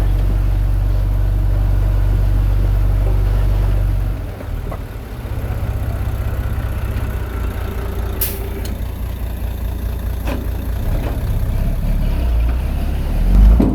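Heavy diesel engine of earthmoving machinery running with a steady low rumble that changes about four seconds in. There is a short sharp sound about eight seconds in, a few lighter knocks later, and a heavy low thump near the end.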